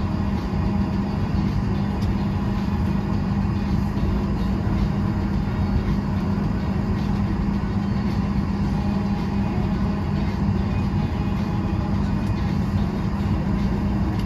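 Steady drone inside a parked airliner's cabin before departure, a constant low hum with fainter higher tones and no change in level.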